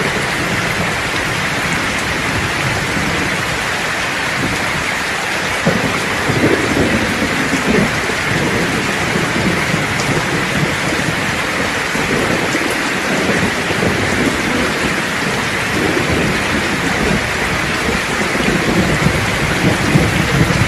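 Steady rain falling, with thunder rumbling low and unevenly from about a quarter of the way in.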